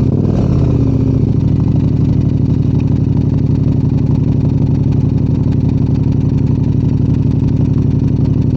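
Motorcycle engine idling steadily; its pitch shifts and settles in the first second or so.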